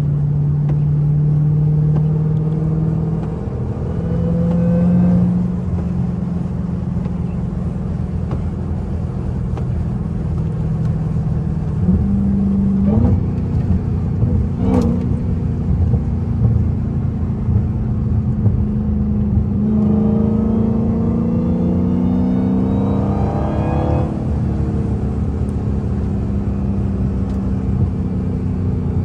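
Straight-piped supercharged 6.2-litre HEMI V8 of a Dodge Hellcat Redeye on the move. The exhaust note cruises steadily, then climbs under acceleration about twenty seconds in and drops at a gear change a few seconds later. Two sharp cracks come from the exhaust about halfway through.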